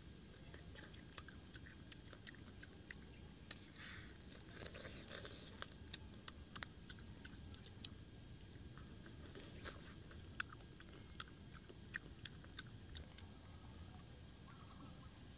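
Faint close-up chewing and biting of a cooked chicken drumstick, with scattered sharp little clicks and mouth smacks.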